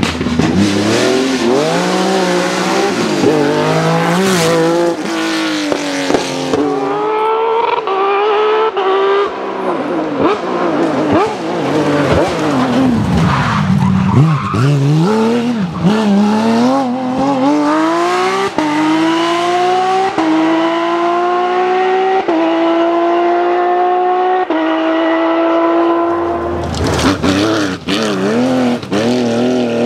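Porsche rally car's flat-six engine driven hard, revs rising and falling through corners, then pulling through a run of upshifts in which the pitch climbs in each gear and drops at each shift.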